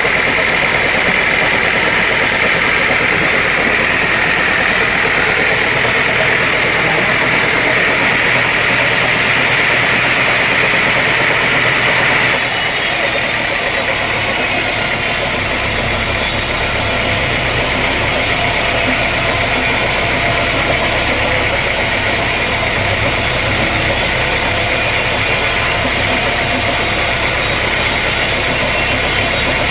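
Sawmill machinery running steadily, with a high whine from the saw. About twelve seconds in the sound changes abruptly, and a low, steady engine hum takes over.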